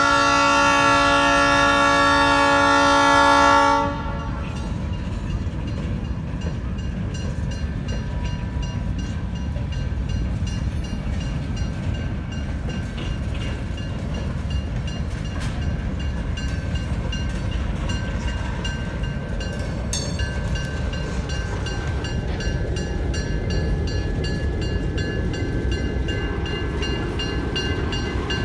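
A diesel locomotive horn sounds a loud chord of several notes, cutting off about four seconds in. A slow freight train of loaded hopper cars then rolls past with a steady low rumble of wheels on rail and occasional clicks.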